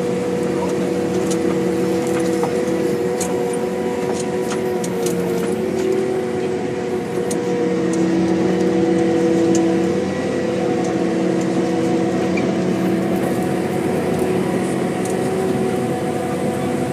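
Heavy diesel cane-harvesting machinery running steadily at a constant engine speed, with scattered light clicks and rattles throughout.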